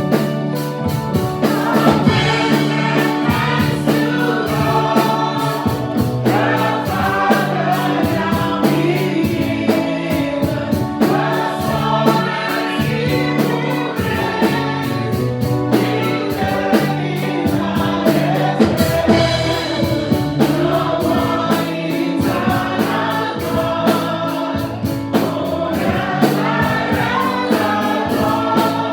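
Gospel choir singing a worship song over a band with bass and drums keeping a steady beat.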